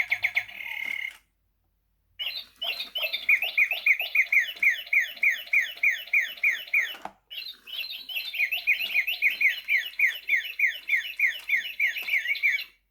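Sound-activated toy singing bird playing electronic birdsong: a brief trill, a short pause, then two long runs of evenly repeated falling chirps, about four a second, with a short break between them.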